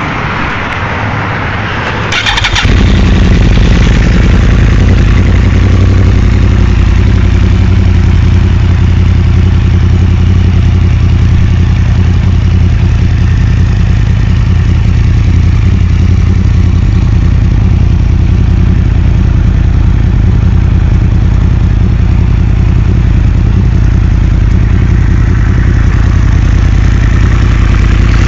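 Motorcycle engine cutting in loudly about two seconds in, then running at a steady idle; before it there is a short stretch of hissing noise.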